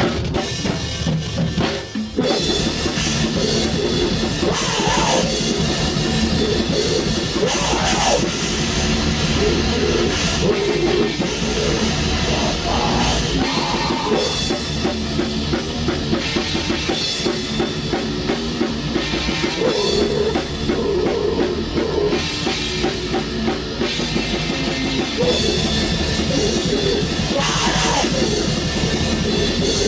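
Black metal band playing loud and dense, drum kit and distorted instruments together, starting abruptly.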